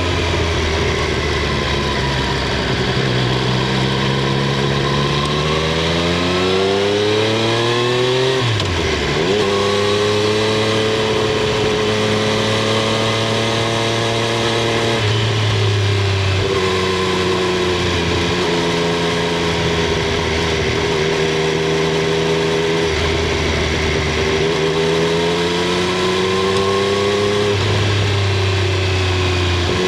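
Triumph Street Triple 765 R's inline three-cylinder engine and exhaust under way, rising in pitch for several seconds as it accelerates, then dropping sharply about eight seconds in. It then runs at a fairly even pitch with a few small steps, over a steady rush of wind and road noise.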